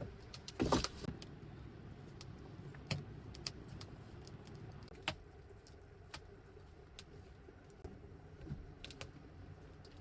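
Scattered sharp clicks and light knocks, with a louder clatter about a second in, over a low steady background rumble.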